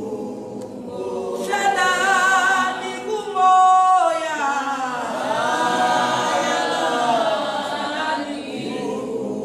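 Unaccompanied worship singing: voices holding long, wavering notes without instruments.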